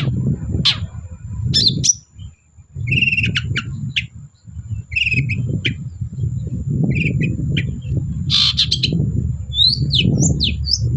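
Long-tailed shrike singing a varied, chattering song of short chirps and harsh notes, with quick upward-sweeping whistles near the end. Underneath runs a loud low rumble that drops out briefly twice, along with a thin, steady high whine.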